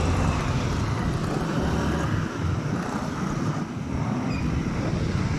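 Honda XR150L's single-cylinder four-stroke engine running while the bike rides through traffic, with road and wind noise. The engine note drops back briefly a little past two seconds in and again near four seconds.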